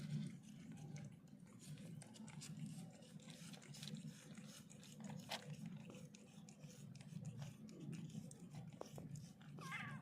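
Faint sounds of a mother cat and her kitten: a steady low hum under many small soft clicks, and one short wavering high squeak near the end.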